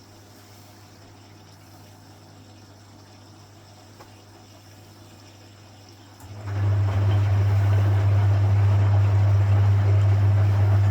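Vintage Frigidaire Super Deluxe Automatic 50 front-loading washing machine between rinses: a faint steady hum, then about six seconds in a loud mains hum starts suddenly along with rushing water, as the machine moves water through the drum during its rinse stage.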